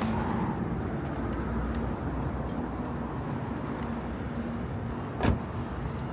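Steady low rumble of a car on the move, with one sharp knock a little after five seconds in.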